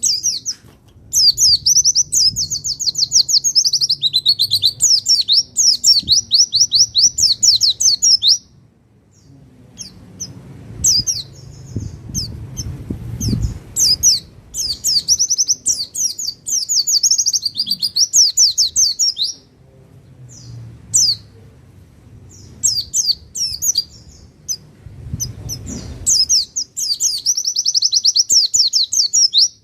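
White-eye (pleci) singing long, fast, high twittering phrases, three times: about a second in, in the middle, and near the end, with scattered short chirps between. A faint low hum runs underneath.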